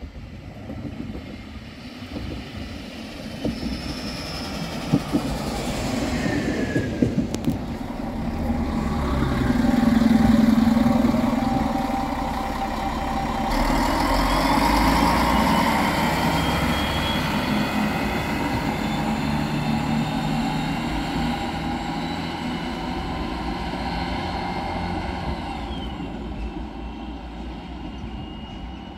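Regional train approaching and passing, its wheels rumbling on the rails with thin high-pitched squealing tones above. It builds up, is loudest about ten seconds in, and stays loud as the cars go by.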